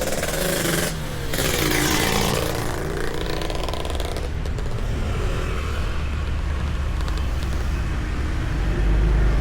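Road traffic on a city street: a motor vehicle passes in the first few seconds, then a steady low traffic rumble.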